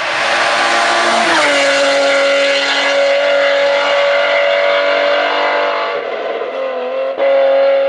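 Competition car's engine at full throttle on a hillclimb, running loud and held at high revs. The engine note drops about a second in, dips briefly later, and there is a short cut near the end before it comes back loud.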